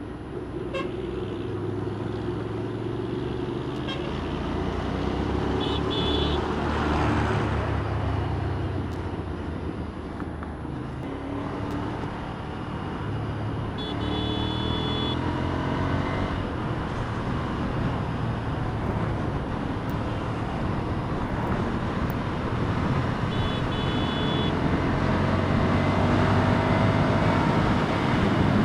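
Ducati Scrambler's L-twin engine running at road speed under wind rush, its pitch rising and falling with the throttle. Vehicle horns sound three times in short blasts, about six seconds in, about fourteen seconds in and near twenty-four seconds.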